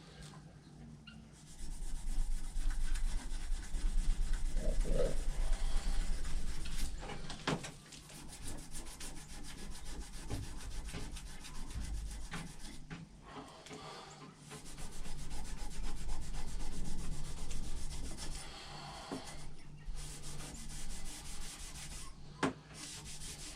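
Hand sanding and rubbing on a steel axe head to take off rust and smooth it. It comes as a dense scratchy rasp, in two louder spells: from about two to seven seconds in, and again around fifteen to eighteen seconds in.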